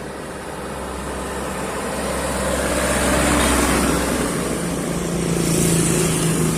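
Heavy diesel truck loaded with sugarcane driving past: engine and tyre noise swell to a peak about three seconds in and ease off, and another engine comes up with a steady hum near the end.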